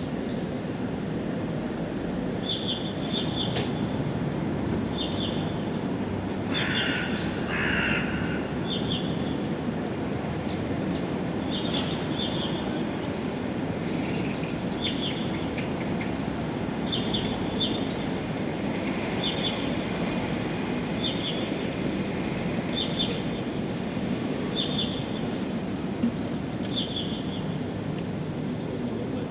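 A songbird repeating a short, high chirp about once every second or so, sometimes doubled, over a steady low background rumble.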